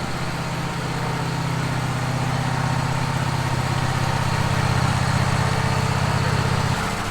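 Wood-Mizer LT15 sawmill's engine running steadily, its low hum dropping away shortly before the end.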